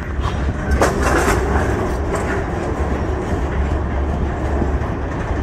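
Freight train of tank cars rolling past close by: steel wheels on the rails give a steady low rumble, with a few sharp clanks about a second in.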